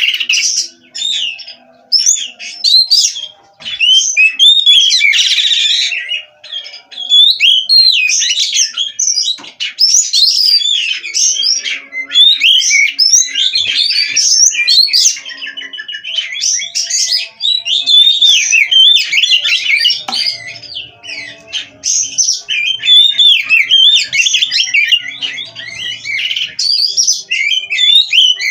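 Oriental magpie-robin (kacer) singing nonstop: a loud, unbroken run of varied whistles and quick chattering notes, with pitch sweeping up and down.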